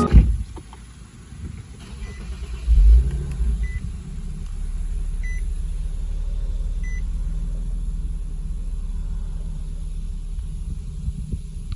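2014 Infiniti Q60's 3.7-litre V6 starting: a loud flare of revs about three seconds in, then settling into a steady idle. Four short, faint chime beeps sound over the first seven seconds.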